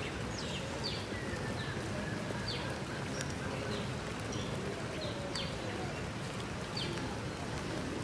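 Small birds giving short, high, falling chirps, roughly one a second, over a steady hiss of falling rain.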